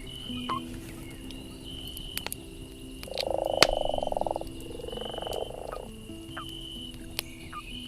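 A frog's rapidly pulsed croaking call, about a second and a half long, about three seconds in, followed by a weaker second call. Under it are soft, sustained music notes and scattered sharp crackles from a campfire.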